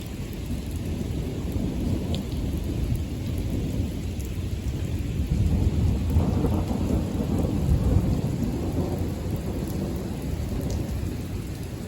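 Thunder rumbling over steady rain. It swells to its loudest about halfway through, then slowly dies away.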